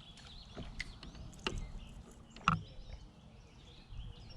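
Songbirds chirping over a low outdoor rumble, broken by three sharp knocks; the loudest comes about two and a half seconds in.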